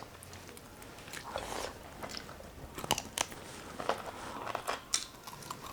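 Close-miked biting and chewing of roast chicken: irregular crunches and sharp cracks, the loudest about three and five seconds in.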